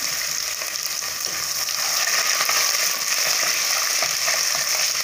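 Chopped shallots and curry leaves sizzling steadily in hot oil in an aluminium pressure cooker, stirred with a spoon toward the end.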